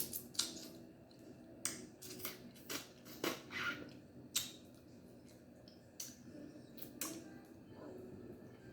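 Snow crab leg shells being cracked and broken apart by hand, a series of irregular sharp cracks and snaps, fewer toward the end.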